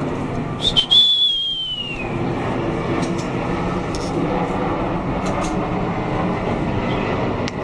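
A single high whistle, about a second and a half long, that slides down in pitch, with a few light clicks over a steady rumbling background noise.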